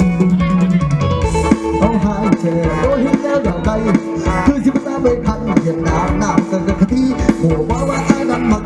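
Mor lam sing band playing an instrumental passage: a steady drum beat with bass and plucked-string melody lines, played loud.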